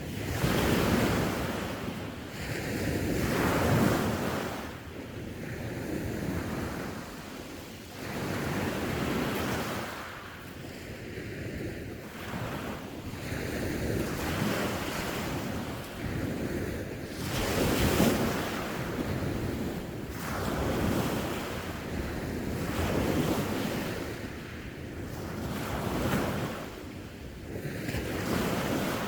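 Sea waves breaking and washing onto the shore, the surf swelling and receding every few seconds, with wind buffeting the microphone.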